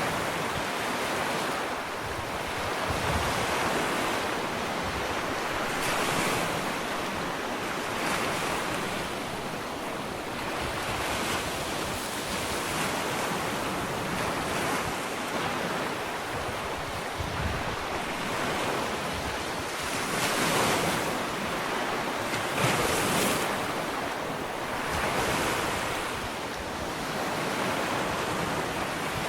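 Gentle ocean waves lapping on a sandy beach: a continuous wash of surf that swells and recedes every few seconds.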